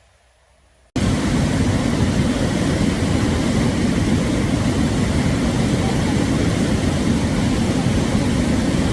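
Rushing floodwater of a high river, a loud steady roar that cuts in suddenly about a second in.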